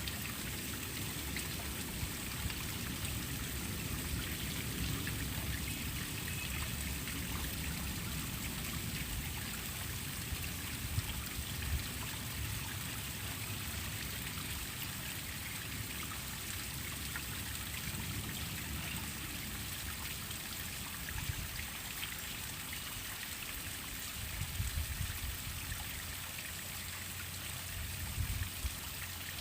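Waterfall: water pouring and splashing steadily, a constant rushing hiss with a few louder low splashes now and then.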